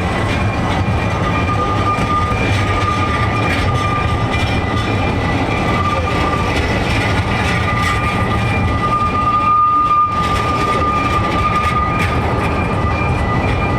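Narrow-gauge railway train running, a steady loud rumble of wheels on track with a steady high-pitched squeal over it.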